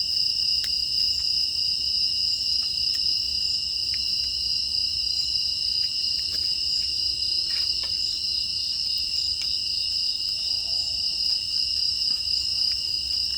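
Chorus of night-singing crickets and other grass insects, a steady high-pitched trilling in two pitches that does not let up, with scattered faint clicks.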